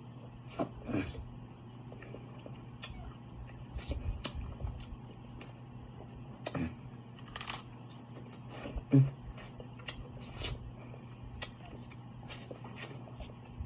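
A person eating seafood boil close to the microphone: scattered wet chewing, smacking and crunching clicks, the sharpest about nine seconds in, over a faint steady hum.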